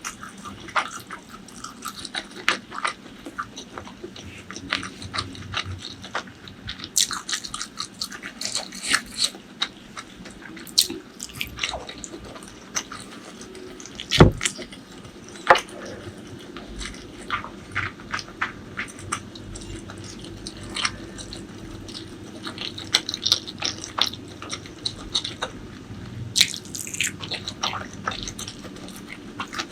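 Close-miked mukbang eating: wet chewing and mouth sounds with many small clicks and smacks. One sharp knock stands out about a third of the way through.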